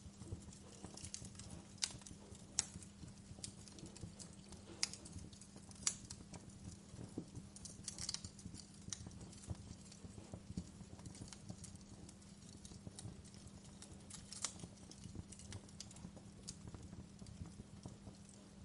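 Wood fire crackling, with irregular sharp pops and snaps, a few louder than the rest, over a low steady hum.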